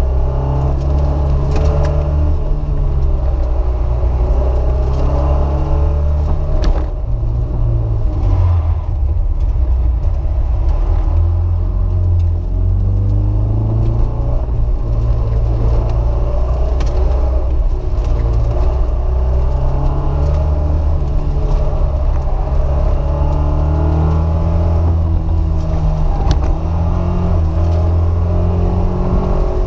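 Alfa Romeo Alfetta's engine heard from inside the cabin, revving up and down as the car is driven hard through an autocross course, its pitch rising and falling again and again, with a short lift around seven seconds in.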